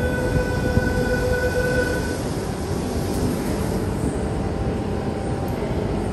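Sydney Trains Tangara electric train standing at the platform while its doors slide open: a steady electronic beep sounds until about two seconds in, over the constant low rumble of the stationary train.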